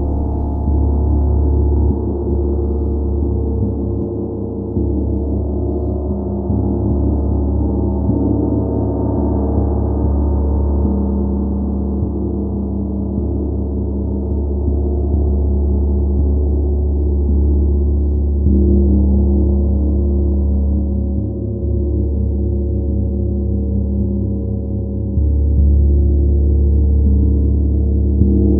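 Gong resonating in a long, deep, sustained wash of overlapping tones that swells afresh every few seconds as it is struck or played again.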